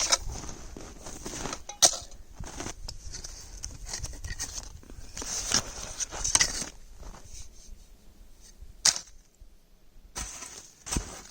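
Irregular crunching and rustling as gear is handled and carried over crusty snow, with a few sharp snaps, the loudest about two seconds in and again near nine seconds.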